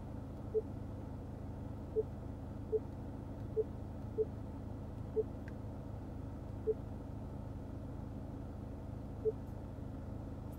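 Short, single-pitched touchscreen confirmation beeps from the 2020 Subaru Legacy Limited's dash display, about eight at uneven intervals as menu items are tapped to reset the oil filter life. A steady low hum runs underneath.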